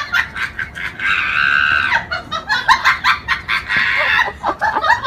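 Chickens clucking in quick short calls, with one drawn-out squawk lasting about a second, about a second in.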